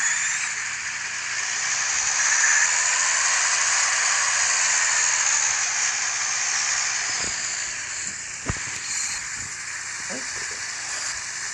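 Truck tyres hissing on a wet road, easing off as the truck slows, with a single sharp knock about eight and a half seconds in.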